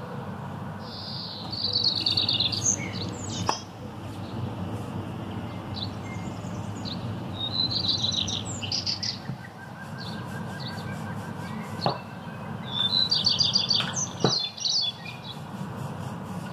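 Small birds chirping in three quick bouts, over a steady low hum, with a few light knocks in between.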